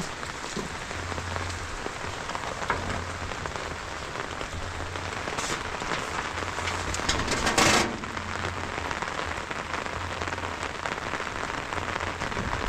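Steady rain falling, heard as an even hiss, with one brief louder rush of noise a little over halfway through.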